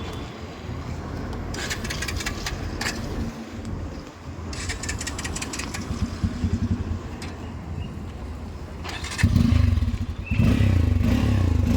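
Hero XPulse 200 4V motorcycle's single-cylinder engine running, revving up louder about nine seconds in.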